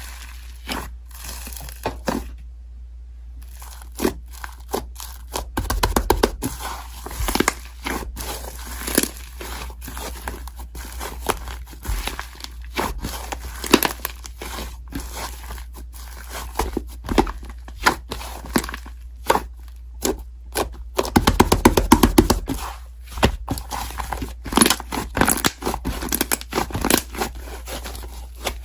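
Slime being squished and pressed by hand: a continual irregular run of sticky clicks, crackles and small pops, thickest around six and twenty-two seconds in.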